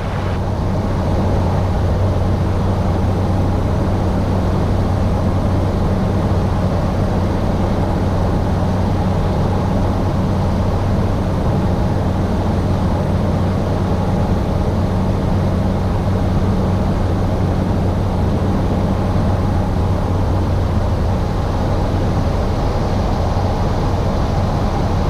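Cessna Caravan 208's single turboprop engine and propeller droning steadily in the cockpit on final approach, with a low, even hum under it.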